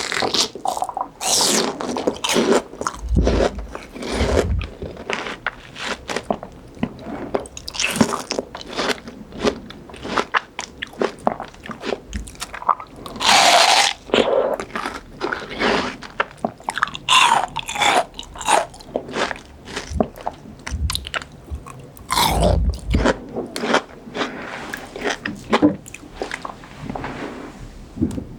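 Close-miked biting and chewing of crunchy fresh fruit: dense, irregular crisp crunches with wet, juicy mouth sounds between them.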